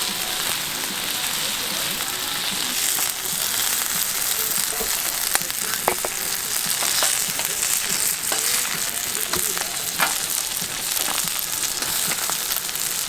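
Food frying: a steady sizzling hiss with a few sharp pops.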